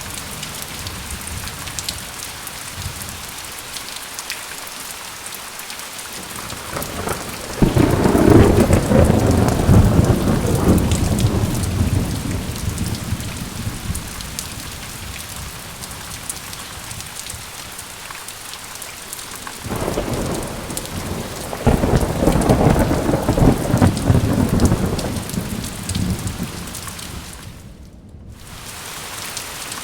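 Steady rain pattering on a surface, with two long rolls of thunder: one about seven seconds in and another around twenty seconds in, each swelling and slowly fading. Near the end the rain briefly dips.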